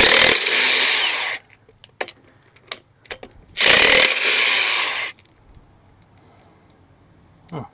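Impact wrench run in two bursts of about a second and a half each, spinning bolts out of a Big Cam Cummins diesel engine, with small metal clicks between the bursts.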